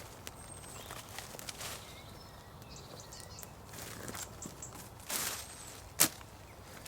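A brush hook slashing through brambles: a few swishes and a sharp chop about six seconds in, with faint bird chirps.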